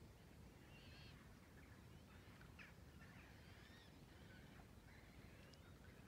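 Near silence with faint, scattered bird calls: short chirps and calls about a second in, again through the middle and near the end, over a low, steady background rumble.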